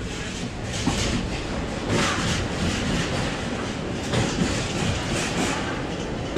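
Express train coach running at speed, a steady rumble with its wheels clacking over rail joints in quick pairs, heard from the coach's open window.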